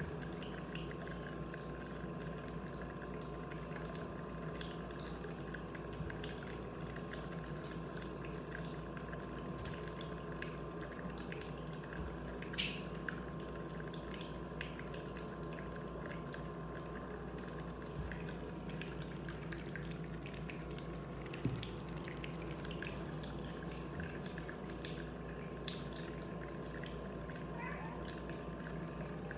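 Nebulizer running steadily with a liquid, bubbling hiss, with scattered small clicks. A cat is heard faintly, with a short call near the end.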